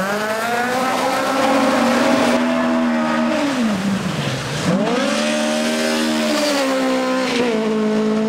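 Toyota Corolla GT rally car's engine held at high revs under load. About three and a half seconds in the revs fall steeply for about a second, as for a lift or gear change, then climb back and hold high again, with a smaller dip near the end.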